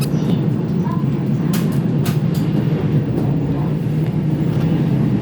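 A train running on the tracks: a steady low rumble with a few sharp clicks a little after the first and second seconds.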